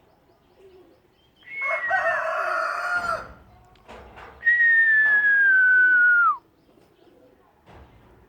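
African grey parrot calling and whistling: a short, rough call about a second and a half in, then a long clear whistle that slides slowly down in pitch and drops quickly at its end.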